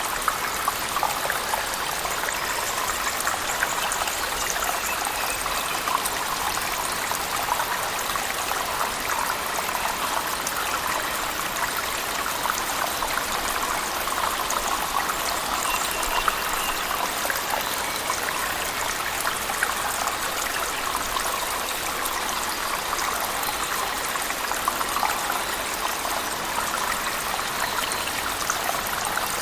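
Steady rush of a waterfall pouring into a cave, with heavy rain, full of small splashes and drips.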